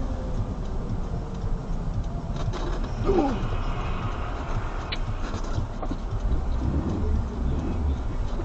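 Steady low rumble of a car on the road, engine and tyre noise heard from inside the vehicle, with a few faint ticks.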